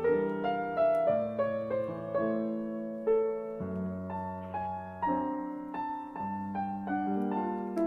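Slow, soft piano music with gently struck notes about every half second over sustained low chords.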